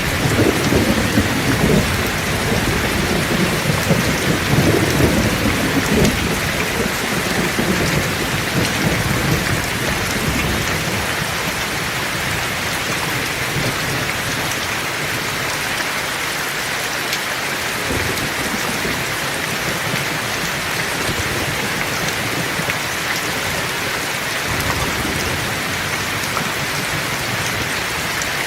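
Heavy rain falling steadily, with a rolling rumble of thunder in the first several seconds that dies away.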